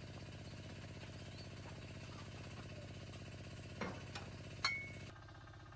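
A small engine idling with a steady, rapid putter. A few sharp knocks come near the end, and the sound drops to a quieter level just after five seconds in.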